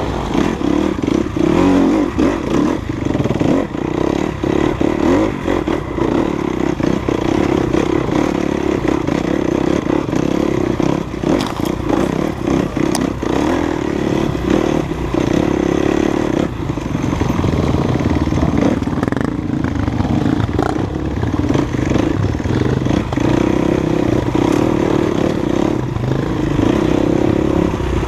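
Enduro dirt bike engine running steadily under throttle, with frequent knocks and rattles from the bike over rough trail.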